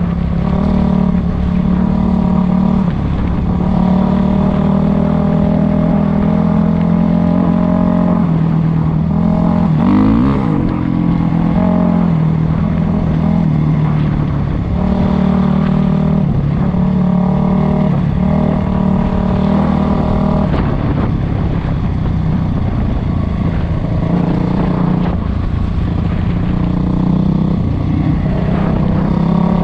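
Dirt bike engine running while riding, its pitch easing off and picking up again several times as the throttle changes, with a quick rise and fall about ten seconds in.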